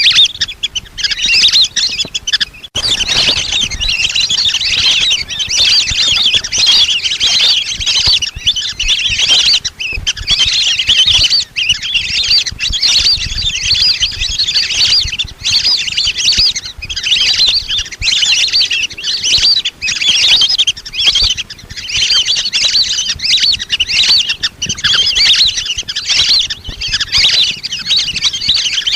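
A flock of lesser whistling ducks giving dense, continuous high whistling chirps, many birds calling over one another without a break.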